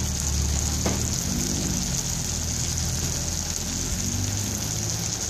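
Squid stir-frying in salted egg sauce, the pan sizzling steadily.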